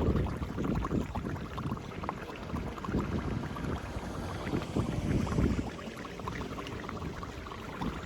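Floodwater splashing and gurgling as it drains through a cleared road grate, with wind buffeting the microphone in uneven low gusts.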